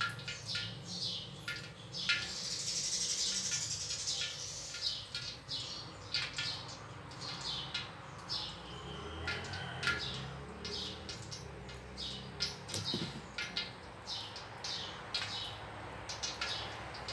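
Small birds chirping in many short, scattered notes over a low steady hum.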